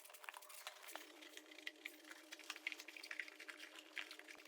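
Very faint scattered light ticks and wet rubbing over a low steady hum, from cleaning a motorcycle's air box and foam air filter by hand.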